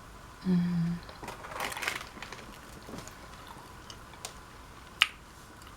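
A person eating a sandwich: a short hummed "mmm", then chewing and crunching, with a few small mouth clicks and one sharp click near the end.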